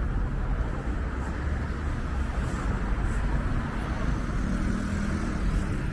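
Steady city street traffic noise: a low rumble of passing vehicles.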